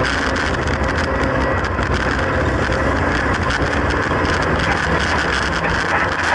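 Classic Mini oval racer's BMC A-series four-cylinder engine running steadily under way, heard from inside the stripped-out cabin with a constant wash of road and wind noise.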